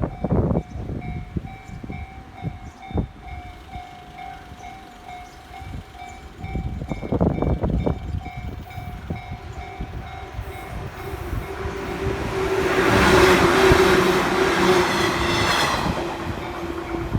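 Level-crossing warning bell ringing in a steady repeated ding, about two a second, with the barriers down. From about 11 seconds a train passes close by, a rising and falling rush loudest around 13 to 14 seconds, with a steady tone under it.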